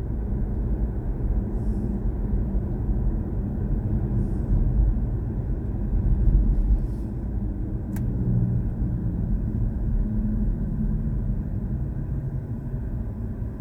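Steady low road and tyre rumble of a BMW i4 M50 electric car driving along, with one sharp click about eight seconds in.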